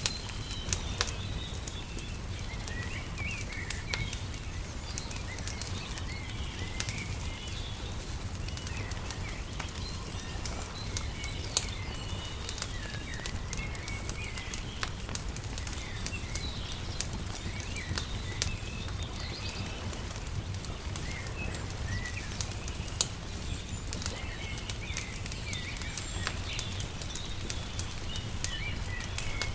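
Wood fire crackling with irregular sharp pops, over a steady low rumble, while small birds chirp and twitter throughout.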